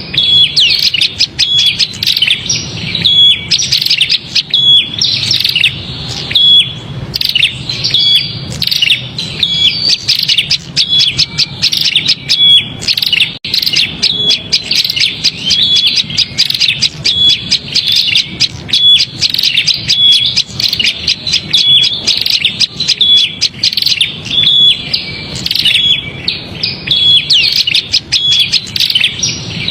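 Prinia (prenjak) giving its agitated, fussing chatter: a fast, unbroken run of sharp repeated calls with a short clear note recurring among them. This is the excited call used as a lure to bring small birds in.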